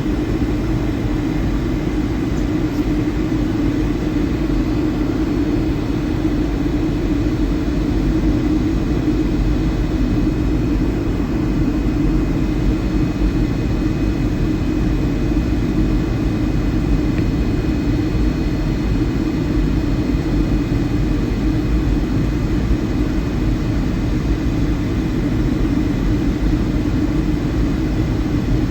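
Steady engine and airflow rumble inside the cabin of a Boeing 757-200 in flight, with a faint steady high whine over it.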